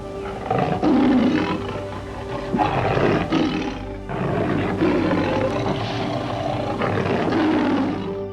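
Lion roaring about four times, each roar rough and about a second long, over steady background music.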